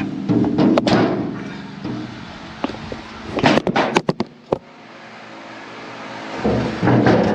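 Heavy steel feeder house floor plate being wrestled into a combine: loud metal clanks and knocks, with a quick run of sharp impacts about halfway through and a rough scraping clatter near the end.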